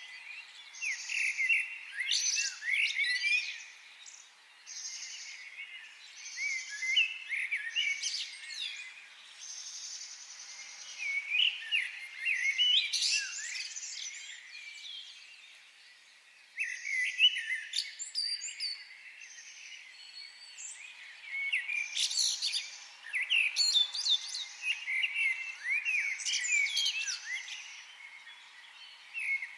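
Several wild birds singing in a forest chorus, with overlapping quick chirps and whistled phrases that swell in clusters every few seconds. Through the first part a short buzzy note repeats about once a second.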